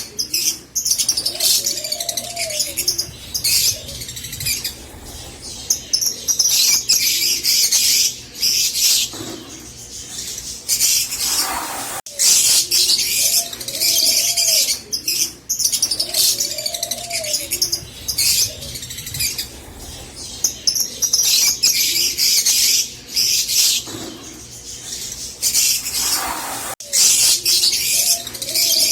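A flock of rosy-faced lovebirds chattering: dense, shrill, rapid chirps and squeaks with no break. Lower arching calls recur every couple of seconds beneath them.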